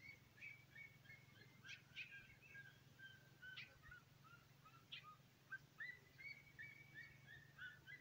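Small birds chirping faintly and almost continuously: many short, high notes with a few sharper, louder chips scattered through.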